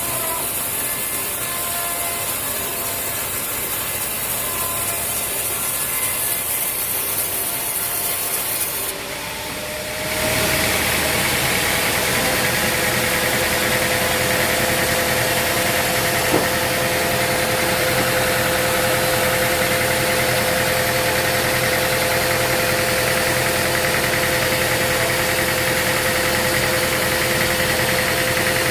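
Sawmill machinery running steadily. About ten seconds in, a louder, even engine-like running with a constant whine takes over.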